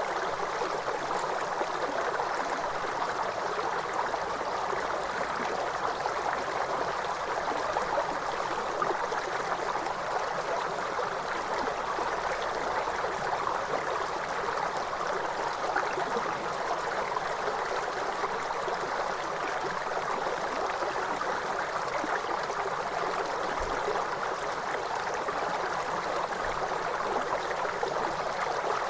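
Waterfall: a steady rush of falling water, an even wash of sound that holds unchanged throughout.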